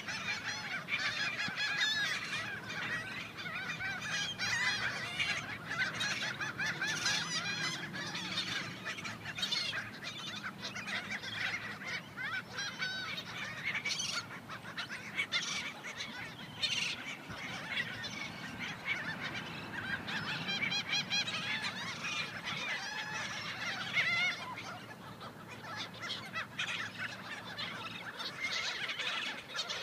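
A large flock of seagulls calling continuously, many squawks overlapping, as the birds fight over thrown bread and chips.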